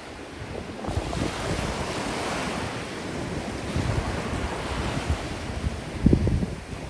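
Sea waves washing onto a sandy beach, with strong wind buffeting the microphone in gusts; a stronger gust comes about six seconds in.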